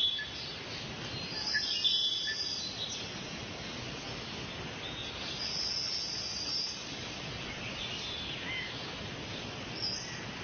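Outdoor ambience: a steady hiss with a few short, high-pitched calls, about two seconds in and again around six seconds in.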